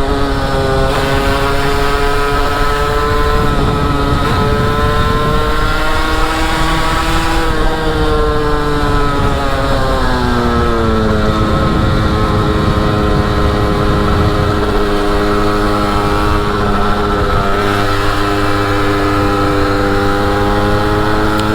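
Derbi motorcycle engine running while riding, its note holding steady, rising a little, then dropping about ten seconds in as the rider eases off, then steady again. A low rumble of wind on the microphone runs underneath.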